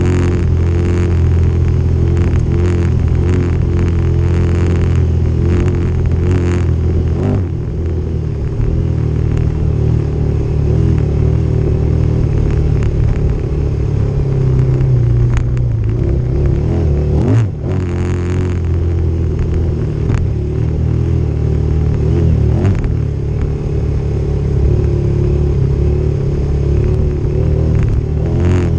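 Off-road motorcycle engine running steadily under way on a dirt trail, its pitch rising and falling a little with the throttle, with one brief dip about halfway through.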